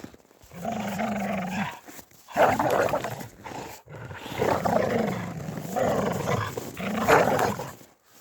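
A pet dog growling in three long drawn-out stretches, the last lasting about four seconds, its pitch wavering throughout.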